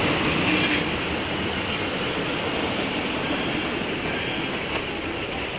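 Excursion train passing close by: the engine rumble of the ALCO S1 switcher's six-cylinder diesel fades about a second in as the locomotives pass. The passenger coaches then roll by, their wheels running and clicking on the rails, slowly growing quieter.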